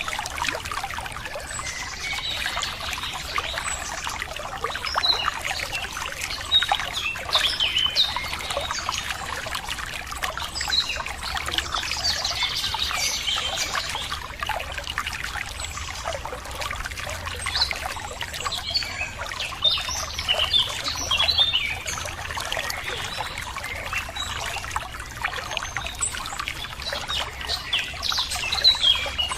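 Running water trickling steadily, with many small birds chirping and calling over it throughout.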